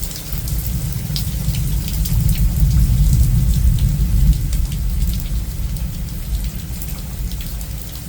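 Heavy rain from a severe thunderstorm, a steady hiss full of small raindrop ticks, under a deep rumble that swells from about two seconds in and eases after five.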